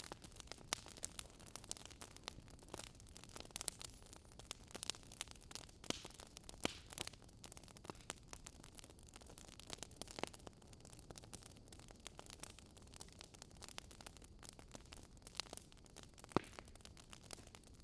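Wood fire crackling: irregular sharp snaps and pops, a few louder ones, over a faint steady hiss.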